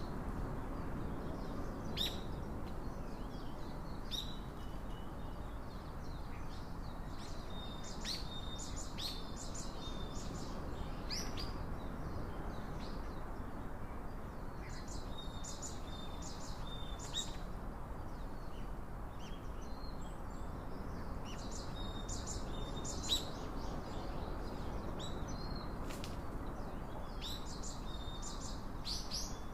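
Small birds chirping and calling in short, scattered high notes, some in quick clusters, over a steady low outdoor background hiss.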